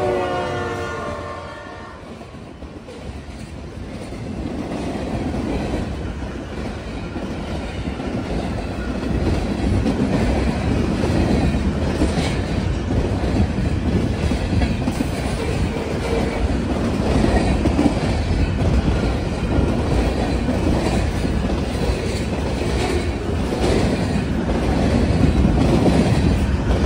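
Union Pacific freight train passing close by: the locomotive horn fades out with a falling pitch in the first second, then the rumble and clickety-clack of freight cars rolling past builds up after a few seconds and carries on steadily, with scattered sharp wheel clicks.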